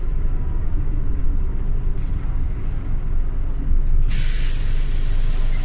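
Scania OmniLink CL94UB city bus running with a steady low engine rumble. About four seconds in, a sudden loud hiss of compressed air starts and keeps going from the bus's air system.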